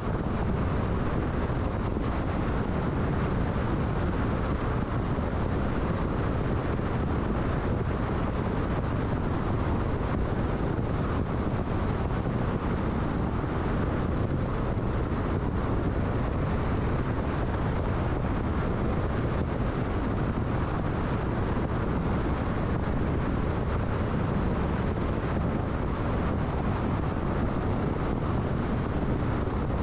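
Steady road and wind noise of a car cruising at freeway speed: a low, even rumble of tyres and air with no change in level.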